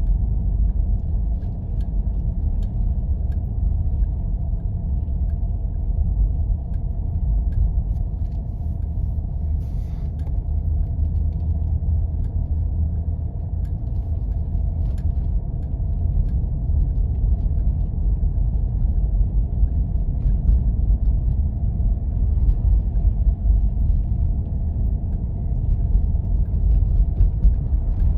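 Steady low rumble of a Jeep driving over snow-covered roads, with faint scattered ticks and a brief hiss about ten seconds in.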